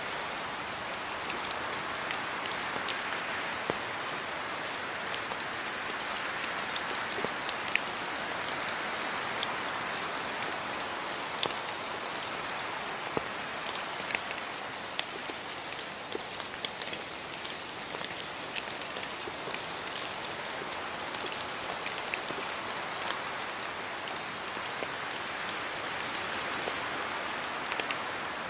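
Steady rain falling, an even hiss with many scattered sharp ticks of individual drops striking.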